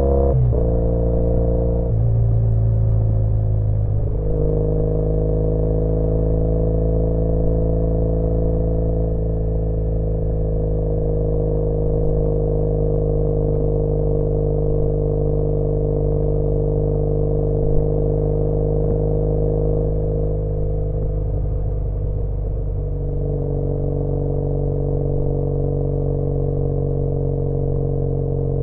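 2013 Triumph Bonneville T100's air-cooled parallel-twin engine running through British Customs Sleeper Pro exhausts. Its pitch shifts a few times in the first four seconds, then holds steady.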